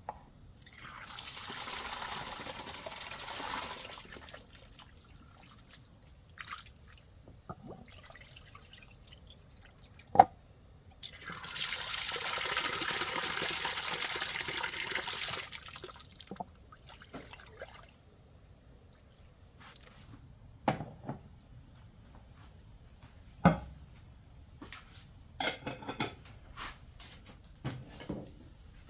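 Water pouring or running twice, about three seconds and then about five seconds, with scattered knocks and clinks in between and afterward.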